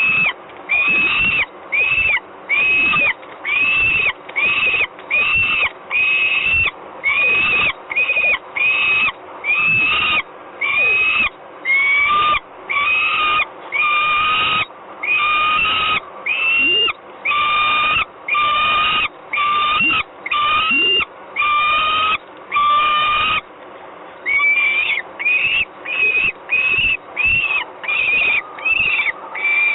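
Peregrine falcon calling over and over, loud harsh calls about half a second long coming roughly one and a half a second, with a brief break about three quarters of the way through.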